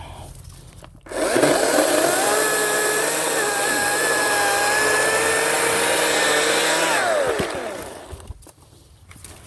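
Ryobi 40-volt battery chainsaw starting about a second in, its electric motor whining and the chain cutting solid wood for about six seconds, then the motor spinning down with a falling whine.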